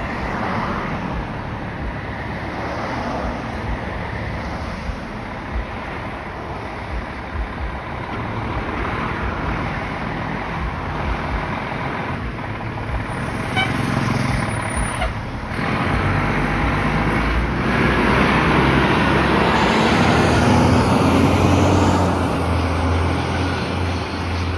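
1999 Pierce Dash fire engine's diesel engine running as the truck pulls out. It builds to its loudest about two-thirds of the way through, then eases off.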